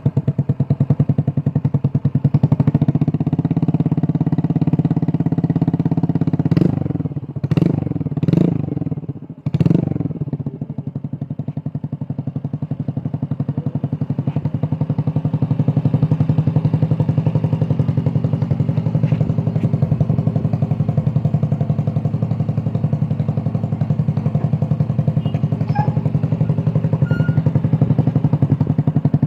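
Single-cylinder scooter engine idling through an aftermarket IZZE Muffler exhaust, with a steady, even putter. Between about six and ten seconds in, the throttle is blipped four times in quick succession, each rev rising and falling, before the engine settles back to idle.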